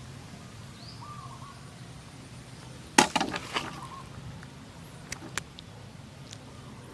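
Outdoor rural ambience with a steady low background noise and a short bird chirp about a second in. About three seconds in comes a quick cluster of sharp clicks and knocks, the loudest thing, with a few fainter clicks a couple of seconds later.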